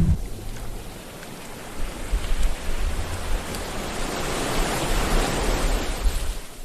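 Sea waves washing in: a steady rush of surf that dips about a second in, then swells again through the second half as a wave builds and breaks.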